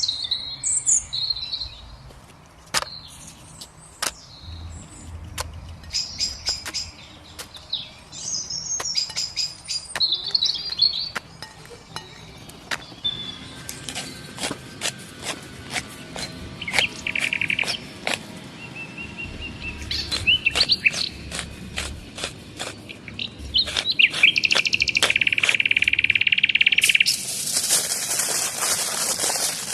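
Small birds chirping and singing, with a run of sharp clicks or knocks through the middle. A steady high hiss starts near the end.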